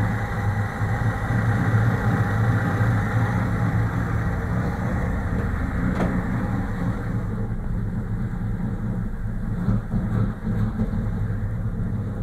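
VAZ-2101 Zhiguli's carbureted inline-four engine idling roughly and unevenly, misfiring with cylinders dropping out. A single click about six seconds in.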